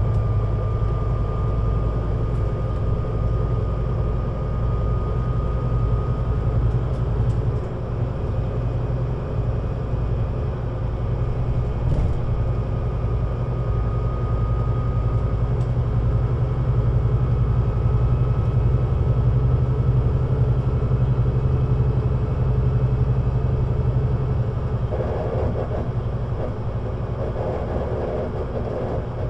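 Scania Citywide LFA articulated bus (CN320UA 6x2/2) under way, its engine giving a steady low drone, with a faint thin whine for the first few seconds and again around the middle.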